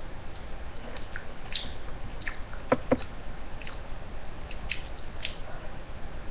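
Close-up chewing and biting of a piece of chicken: scattered wet mouth clicks, with two sharper clicks in quick succession about three seconds in.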